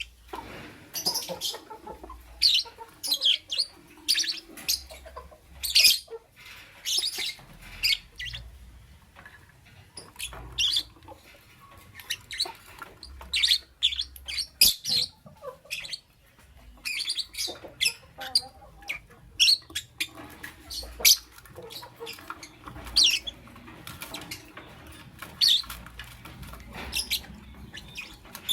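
Lovebird chirping: many short, sharp, high-pitched chirps in irregular bursts, with a single click about halfway through.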